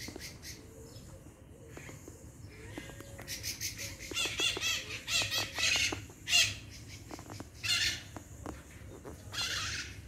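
Birds calling in a series of short, harsh, chattering bursts, thickest a few seconds in and again twice near the end.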